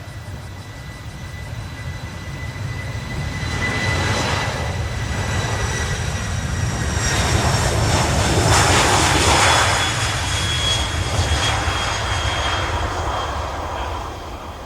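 Kawasaki P-1 maritime patrol jet's four turbofan engines going past: a steady whine that slides slightly lower in pitch over a deep rumble, swelling to its loudest a little past the middle and then fading away.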